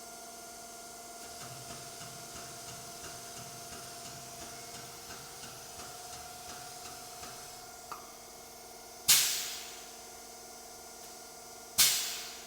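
Hydraulic testing machine running with a steady hum, a run of light ticks about three a second, then two loud sudden bursts a few seconds apart that each fade away over about a second.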